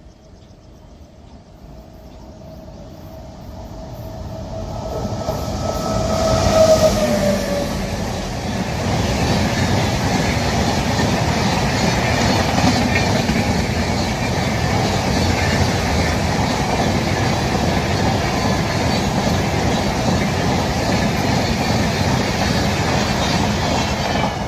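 Express train hauled by a WAP-7 electric locomotive approaching at about 100 km/h, loudness building as it nears. A horn tone drops in pitch as the locomotive passes, about seven seconds in. After that the coaches rush past with steady, loud wheel-on-rail clatter.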